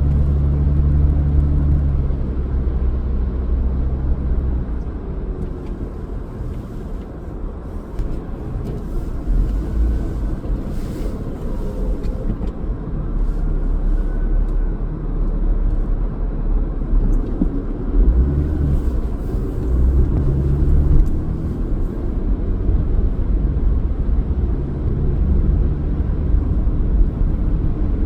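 Car driving: a steady low road-and-engine rumble. The engine's hum is strongest at the start and swells again from about 18 seconds in.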